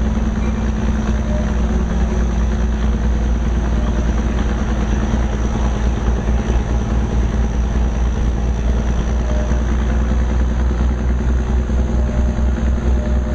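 Steady low rumble of a narrow-gauge train in motion, heard from aboard: wheels on the track and the locomotive running, with no break or change.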